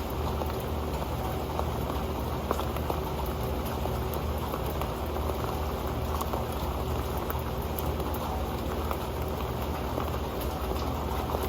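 Steady rain with many small sharp drop ticks, the drops pattering on an old metal pan.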